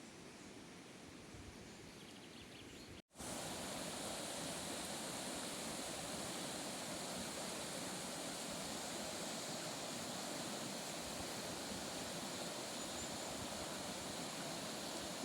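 Faint outdoor background, then after a sudden cut about three seconds in, a steady, even rushing hiss that is louder.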